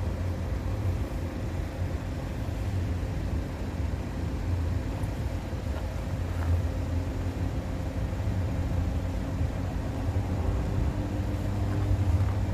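Diesel train running through a level crossing: a steady low rumble with a faint engine tone, and more engine tones coming in near the end.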